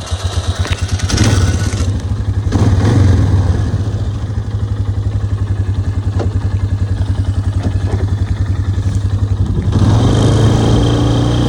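ATV engine running with a fast, even pulse. It revs up twice in the first few seconds, settles into a steady run, then picks up again near the end as it pulls away.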